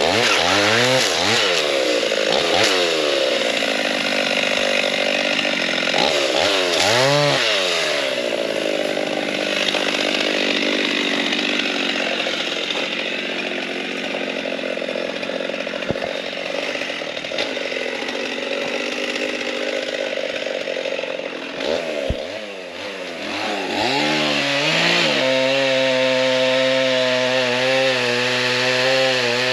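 Gas chainsaw revved in quick throttle blips, then running steadily under load as it cuts through a log for about fourteen seconds. Near the end it is revved a few more times and settles into a steady, even note.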